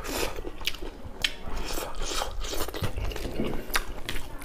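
Close-miked chewing and lip-smacking of a man eating rice and buffalo meat by hand, a string of short, irregular wet clicks.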